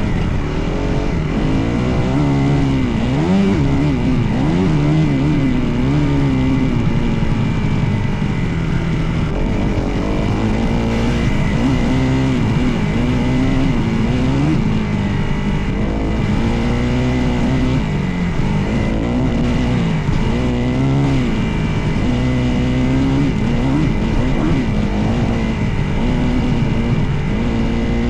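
Dirt bike engine being ridden, the revs rising and falling again and again as the throttle is worked on and off.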